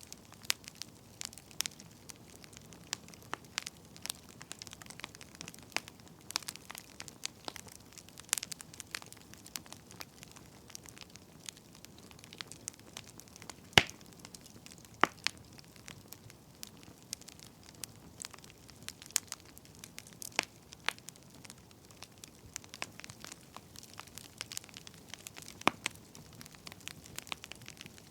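Firewood burning, with irregular crackles and sharp pops over a faint hiss; the loudest pop comes about halfway through.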